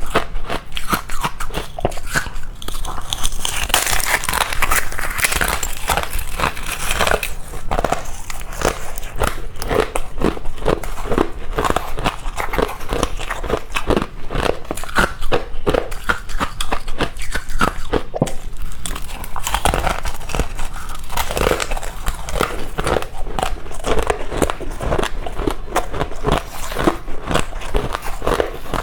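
Close-miked biting and chewing of powdery freezer-frost ice, a continuous run of crunches several a second.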